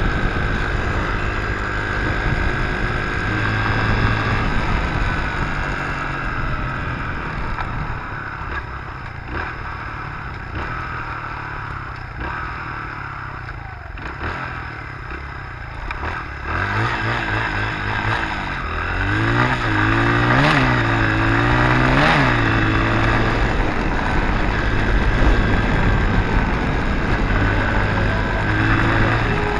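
Dirt bike engine running while being ridden, heard from a handlebar-mounted camera. It drops to a lower, quieter note through the middle, then revs again, its pitch rising and falling several times about two-thirds of the way in.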